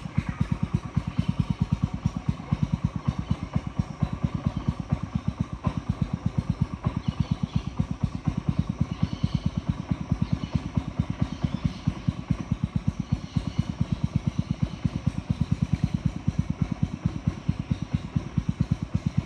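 A boat's motor running steadily, a fast, even chugging beat that does not change speed.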